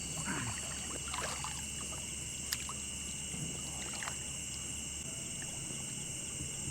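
Night chorus of crickets and other insects, a steady high trill, with a few small water splashes and drips from a boat on the river and one sharp click about two and a half seconds in.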